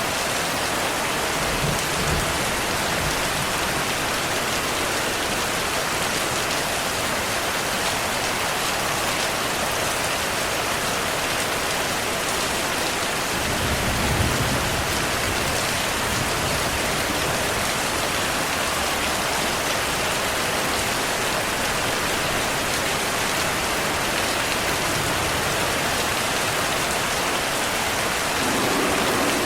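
Heavy rain falling steadily, with low thunder rumbles: a short one about two seconds in and a stronger one around the middle.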